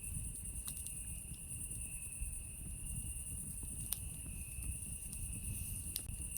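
Campfire crackling, with a few sharp pops over the low, steady rumble of the burning wood, while a chorus of night insects keeps up a steady high trill.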